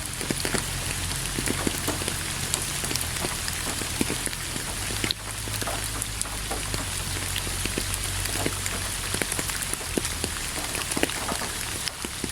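Steady rain, an even hiss with many distinct drop hits scattered through it, over a faint low hum; the level briefly dips about five seconds in.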